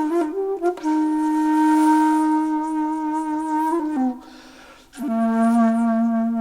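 Background music: a solo flute-like woodwind playing slow, long held notes, breaking off briefly about four seconds in before settling on a lower held note.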